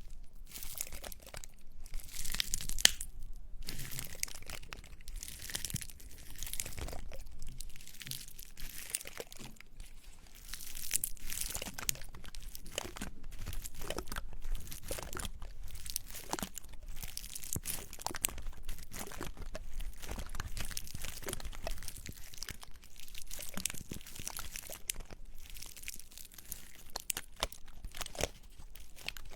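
Small dry pine cones handled and rubbed close to the microphone: a dense, dry crackling and scratching with many small sharp clicks.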